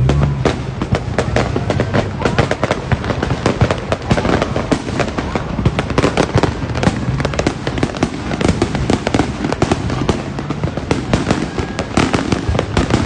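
Fireworks and firecrackers going off, a dense, continuous crackle of many rapid pops and bangs with no let-up.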